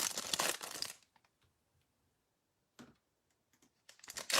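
Foil trading-card pack wrapper crinkling and tearing open, for about a second at first and again near the end, with a near-silent pause and one brief rustle between.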